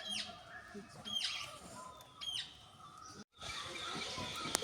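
A bird's call repeated three times, about a second apart, each one a sharp note sweeping steeply down in pitch. It breaks off in a sudden gap near the end.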